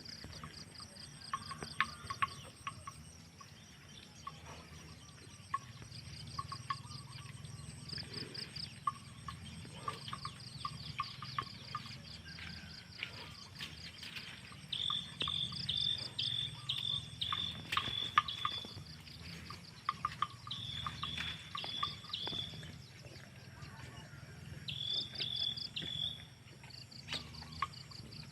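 A chorus of calling insects: repeated high, pulsed trills overlapping one another, with scattered sharp clicks over a low steady rumble.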